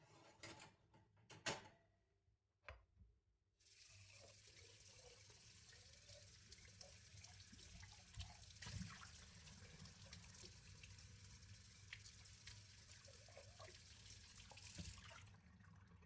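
A kitchen sink tap running steadily into the sink for about twelve seconds, shutting off near the end. Before the water comes on, a few sharp knocks from dishes being handled, the loudest about a second and a half in.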